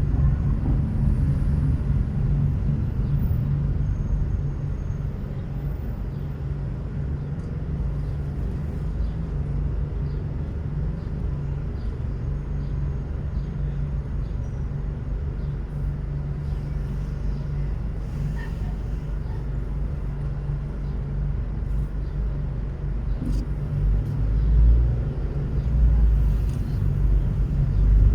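A car driving on city roads: steady low road and engine noise, growing louder for a few seconds near the end.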